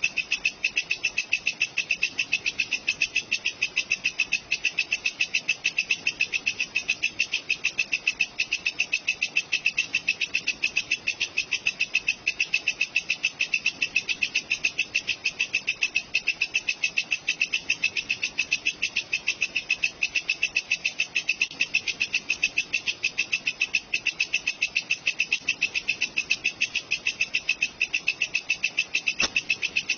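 Walang kecek insect singing: a steady, even train of rapid high chirping pulses, several a second, repeating without a break.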